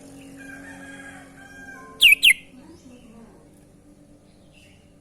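Sooty-headed bulbul calling: two loud, sharp whistled notes in quick succession about two seconds in, followed by fainter short chirps near the end.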